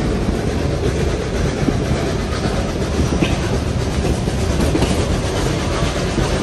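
Steam-hauled heritage passenger train running along the track: a steady, loud rumble of wheels on rail.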